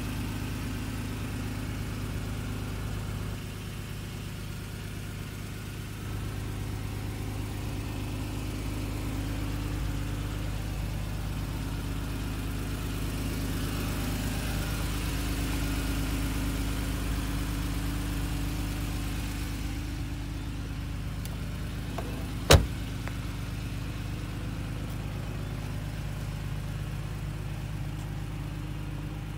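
1992 Honda NSX's 3.0-litre V6 idling steadily. A single sharp clack sounds about three-quarters of the way through.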